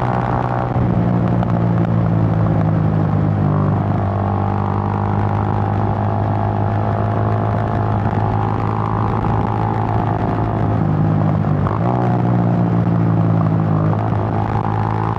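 Suzuki GN125's single-cylinder four-stroke engine running while the bike is ridden, its note shifting in pitch a few times, about a second in, near four seconds and again near twelve and fourteen seconds.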